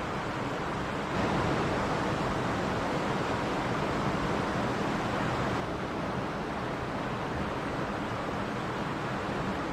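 Mountain stream rushing and splashing over rocks, a steady wash of water noise. It grows suddenly louder and brighter about a second in and drops back just as suddenly about five and a half seconds in.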